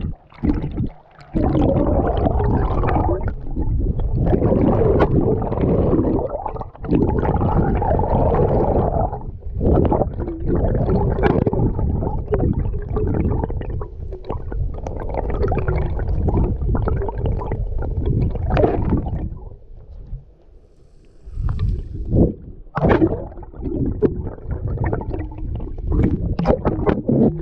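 River water gurgling and rushing, muffled and heavy in the low end, as heard by a camera in or at the water. The sound dips briefly about two-thirds through, then comes back choppier with sharp splashing.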